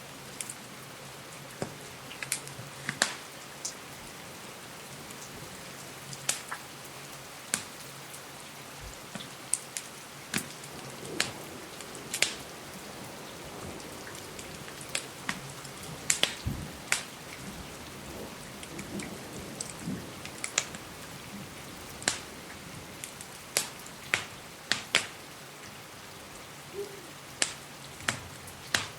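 Steady rain hiss with irregular sharp crackles and pops from a wood fire in a fireplace.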